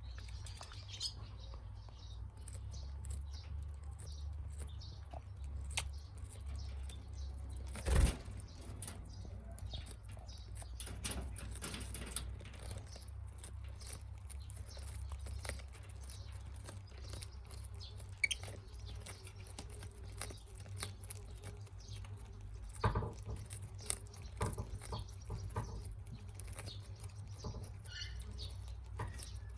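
Budgies moving about a cage: scattered pecking, scratching and rustling with a few brief chirps, over a steady low hum. A louder knock comes about eight seconds in, and another at about twenty-three seconds.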